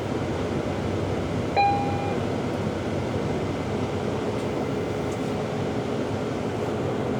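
Steady engine and road noise inside a moving city shuttle bus, with a short electronic beep about one and a half seconds in.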